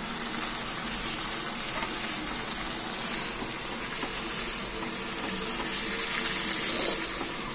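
Semi-dry paneer and capsicum curry sizzling steadily in a nonstick kadai on the gas flame while a wooden spatula stirs it.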